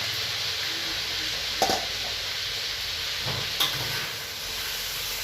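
Beef sizzling steadily as it fries in hot oil in a pan. A utensil knocks against the pan twice, about one and a half and three and a half seconds in.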